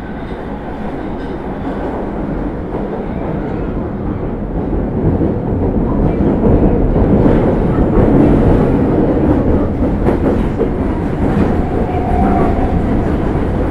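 Osaka Metro 30000 series subway train with Hitachi SiC-VVVF traction control running on the rails, its running noise growing louder through the first half as it picks up speed, then holding steady.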